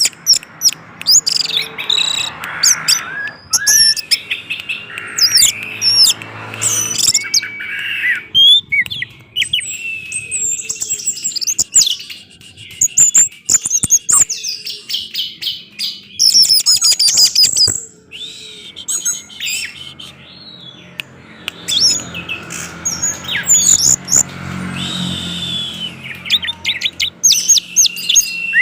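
Orange-headed thrush (anis merah) singing a loud, continuous song of rapid, varied whistles and chirps, phrase after phrase with only short pauses.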